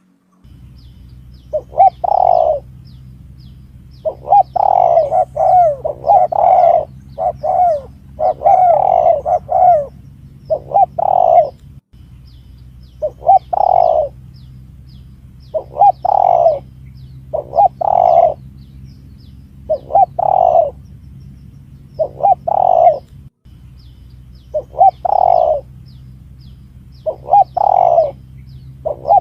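Spotted dove (tekukur) cooing, a lure call: repeated coo phrases about every one to two seconds, some run together in pairs, over a steady low hum.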